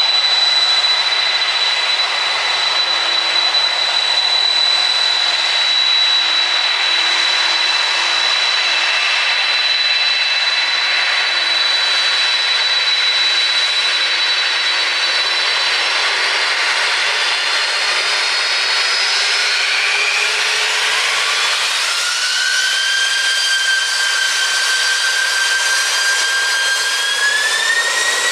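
Four-engined jumbo jet's turbofan engines running with a steady high whine over a loud roar. From about two-thirds of the way through, the whine climbs in pitch in two steps as the engines spool up, typical of thrust being applied for takeoff.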